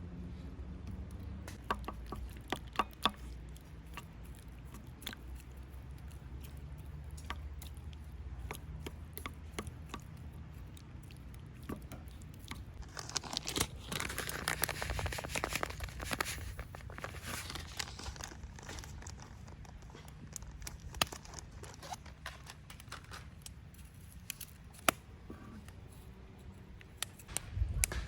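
Wood campfire crackling, with scattered sharp pops and snaps over a steady low rumble. A denser hiss comes up for a few seconds midway.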